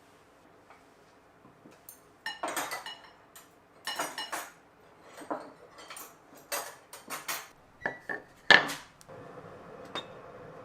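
Dishes and cutlery clattering and clinking as they are handled, a string of knocks with one sharp ringing clink about eight and a half seconds in. A faint steady hum starts near the end.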